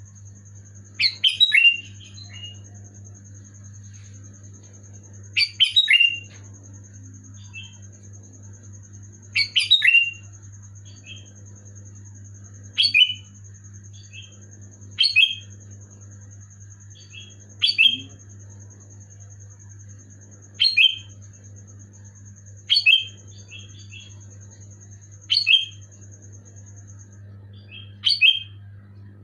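Sooty-headed bulbul (kutilang) singing short, loud, bubbly phrases about every two to four seconds, roughly ten in all, the first few longer than the rest.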